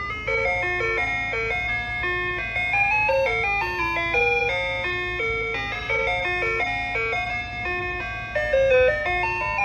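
Ice cream truck's electronic jingle playing a chiming tune of clear single notes, one after another, over its loudspeaker.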